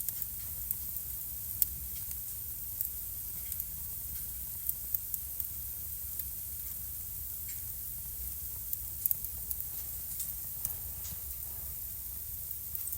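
Wood fire burning in a fireplace, crackling with irregular sharp pops and snaps over a steady low rumble and hiss.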